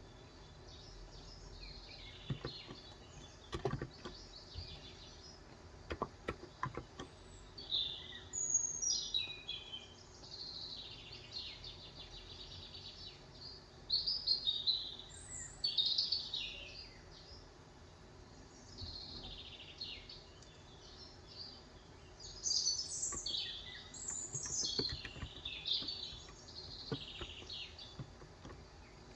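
Songbirds singing outside, short chirping and warbling phrases one after another, the loudest sounds. A few scattered keystrokes on a 35g electrocapacitive keyboard tick underneath, in small clusters rather than steady typing.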